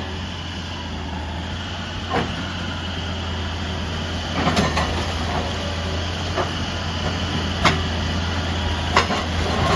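Heavy excavator's diesel engine running steadily, with a handful of sharp clanks and knocks as rock and steel strike, the loudest near the end.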